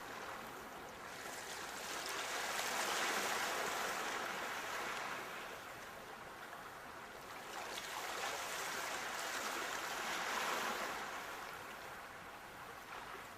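Sea waves breaking and washing on the shore, the surf noise swelling and falling away twice.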